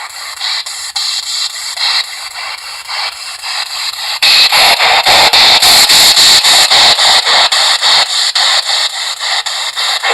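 P-SB7 spirit box sweeping through radio stations: a choppy static hiss, cut into rapid fragments several times a second. It jumps suddenly louder about four seconds in.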